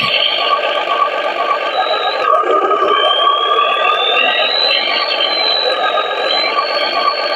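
Small electric motor and gearbox of a model RC truck whining steadily. A high whine rises slowly for a few seconds, then levels off.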